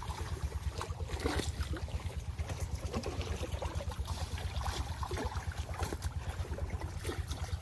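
Pond water splashing and sloshing over a low, rapid throbbing rumble.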